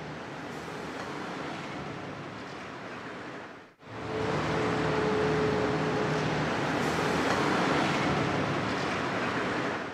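Recorded road traffic rumble, a steady wash of noise, played once at its normal level and then, after a brief break just under four seconds in, about 10 dB louder to demonstrate a 10 dB increase. It cuts off suddenly at the end.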